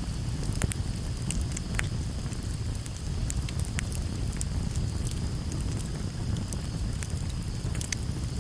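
Wood campfire burning, with frequent irregular sharp crackles and pops over a steady low rumble.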